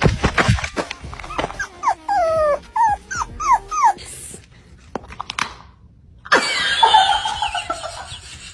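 Dog whimpering and yipping: a run of about seven short, high cries, each sliding down in pitch. A louder, noisier stretch follows about six seconds in.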